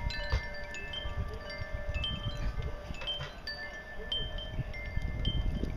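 Wind chimes ringing at several pitches, struck at irregular moments by the storm wind, over a low rumble of wind on the microphone.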